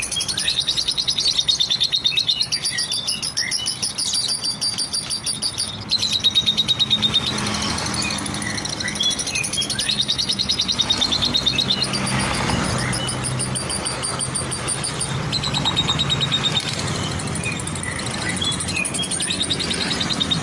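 Lovebird singing in long, rapid high-pitched trills, phrase after phrase of a second or two each, over a low steady hum.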